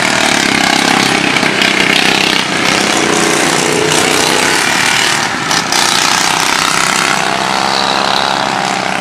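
Engines of several 16–20 hp racing lawn tractors running hard together, a dense, overlapping engine noise with a brief dip about five and a half seconds in.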